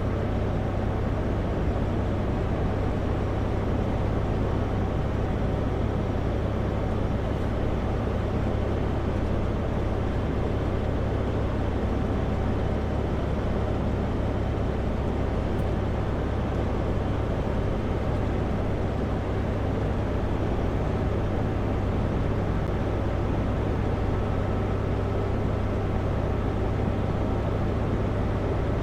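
Kenworth W900L semi truck running steadily at highway speed: a constant low diesel drone with road noise, unchanging throughout.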